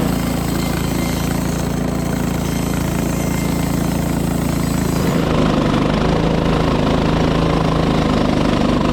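Gas engine of a Frontier OS18 portable bandsaw mill running steadily under load as the blade slabs a black walnut log, fed slowly through the hard wood. The sound shifts about five seconds in, with less hiss above and a stronger low tone.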